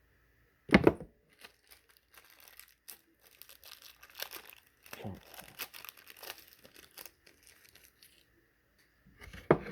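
Plastic parts packaging being torn open and crinkled by hand, a few seconds of scattered crackling. A sharp knock about a second in and another near the end are the loudest sounds.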